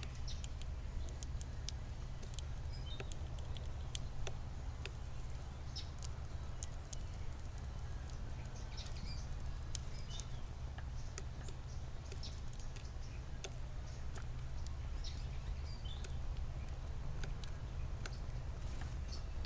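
Small backyard birds giving many short, high chirps and calls, scattered throughout, over a steady low rumble.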